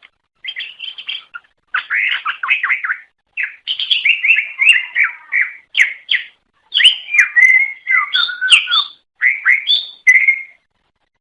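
Cucak ijo (green leafbird) singing a fast, varied song of chirps and sweeping whistles, delivered in a string of phrases with short pauses between them.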